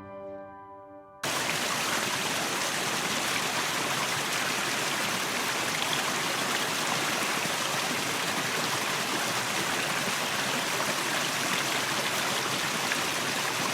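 Piano music ends about a second in, cut off suddenly by a steady, even hiss of running water, like a stream.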